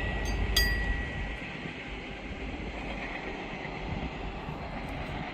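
Saemaeul-ho passenger train passing over a level crossing: a sharp metallic wheel clink with a brief ringing about half a second in, then its low rumble drops away after about a second as it moves off, leaving a steady fainter rolling noise.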